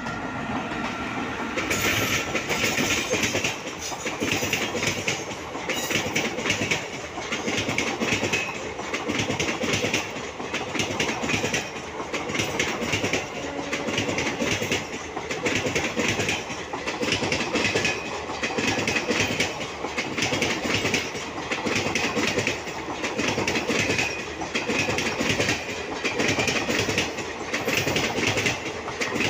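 Falaknuma Express passenger train running on the line, its coach wheels clattering over the rail joints in a steady repeating clickety-clack.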